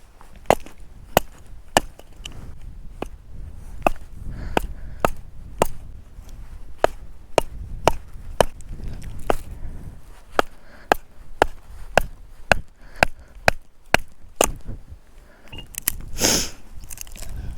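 Wood being chopped for a campfire: sharp, evenly repeated blade strikes, about one and a half a second, then a short pause and a longer, louder crunch near the end.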